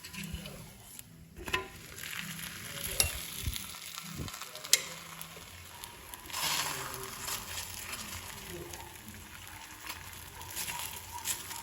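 A paratha frying in ghee in a pan, with a steady sizzle that swells louder about halfway through. A few sharp clicks, about three and five seconds in.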